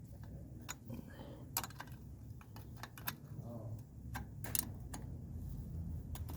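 Scattered sharp metallic clicks of a 10 mm wrench working the bolt that holds the muffler cap, over a steady low hum.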